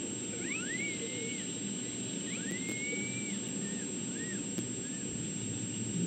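Several thin, high animal calls, two rising, held whistles followed by short chirps, over a steady low outdoor background noise.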